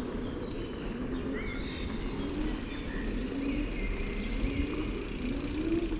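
Steady low rumble of a bicycle rolling over a bumpy path, with small birds chirping faintly now and then.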